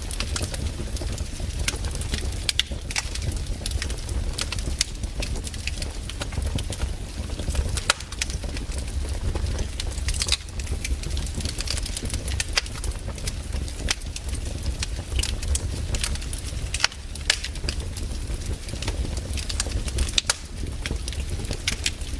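Wood campfire burning, with irregular crackles and pops over a steady low rumble.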